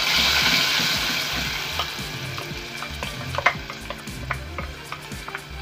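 Onion and yogurt paste poured into hot oil in a pot, sizzling loudly at first, with the sizzle dying down over the next few seconds. A wooden spoon stirs through it, knocking against the pot several times in the second half.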